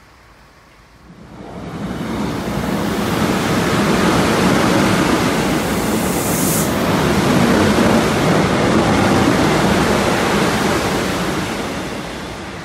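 A Korail Line 1 electric commuter train passes close by at speed without stopping: a steady rushing rumble of wheels on rail that swells from about a second in, holds loud, and eases off near the end. About six and a half seconds in there is one brief high hiss.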